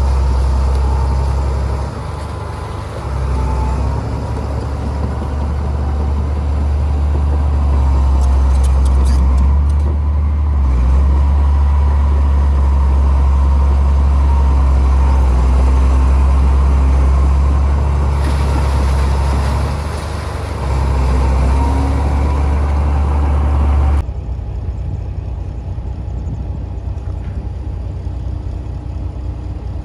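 Heavy diesel earthmoving machinery running with a deep, steady engine rumble that dips briefly a few times. About six seconds before the end it cuts off abruptly, leaving a quieter engine sound.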